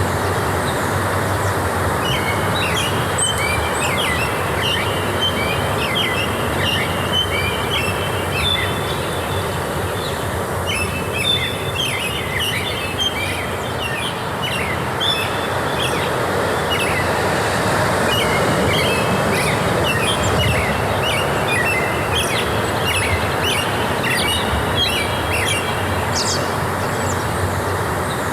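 Forest ambience: many small birds chirping and twittering continuously over a steady rushing background noise.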